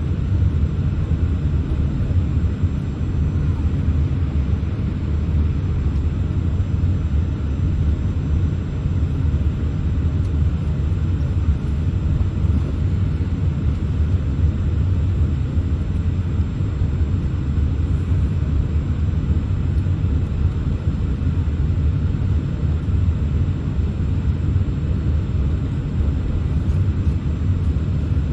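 Cabin noise of a Boeing 787-8 taxiing on the ground: a steady low rumble from the Rolls-Royce Trent 1000 engines at idle and the airframe rolling, with no change in pitch or level.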